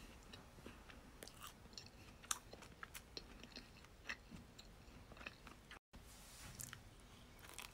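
Faint close-up chewing of a soft chocolate-iced Krispy Kreme doughnut, with small scattered mouth clicks and smacks. The sound cuts out for an instant just before six seconds in.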